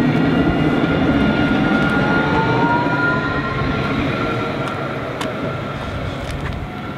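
A tram pulling away from the platform: a steady rumble with a rising electric motor whine partway through as it speeds up, fading over the last few seconds.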